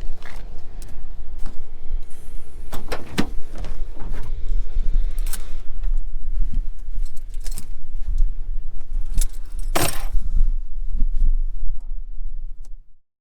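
Moving vehicle with a steady low road rumble and metallic jangling and clicking over it, like keys rattling, cut off abruptly near the end.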